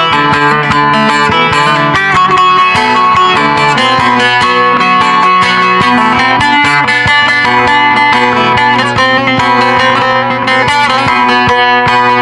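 Bağlama, the Turkish long-necked saz, playing a folk melody with rapid plectrum strokes.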